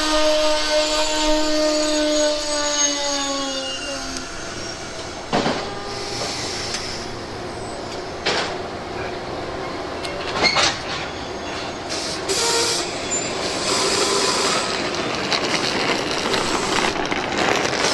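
A train's horn sounds a chord that drops slightly in pitch and fades out about four seconds in. It gives way to the steady rumble of the train rolling past, with a few sharp clunks as wheels cross rail joints.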